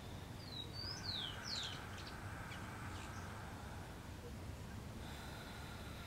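Quiet outdoor ambience: a bird gives three or four quick, high, descending chirps in the first couple of seconds, over a steady low background rumble.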